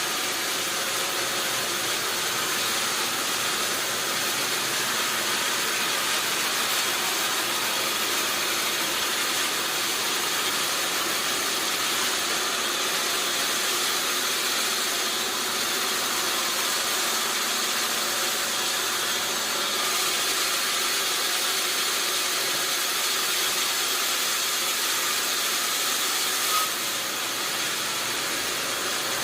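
Sawmill machinery running with a steady, even noise that holds constant throughout.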